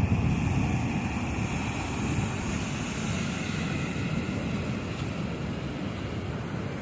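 Wind rushing over the microphone on top of steady surf, a continuous low rushing noise that eases gradually.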